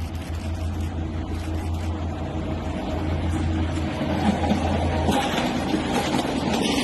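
A vehicle running with a steady low drone under a rough rumbling noise. The drone drops away about five seconds in as the rumble grows louder.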